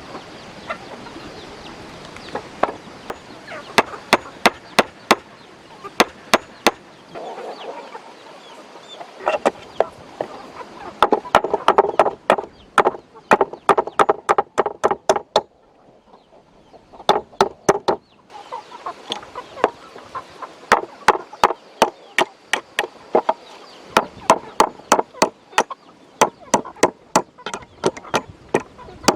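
Runs of sharp knocks, several a second, broken by short pauses, as of hammering or chopping on wood. Farm fowl cluck in the background.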